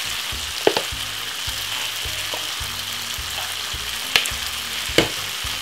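Meatballs, onions and peppers sizzling steadily in a frying pan, with a few sharp taps: one under a second in and two near the end.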